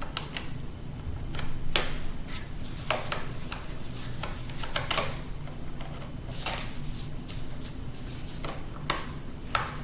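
Scattered small clicks and taps of a screwdriver backing screws out of an old MacBook's casing, a few irregular strikes over a steady low hum.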